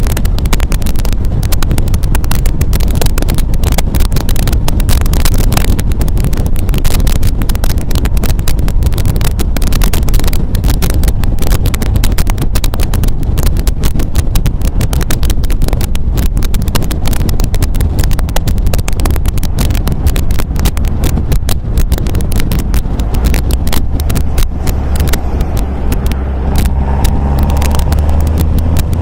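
MGA roadster's four-cylinder engine running on the road, under heavy wind buffeting on the microphone. Near the end the wind noise eases and a steady engine note comes through more clearly.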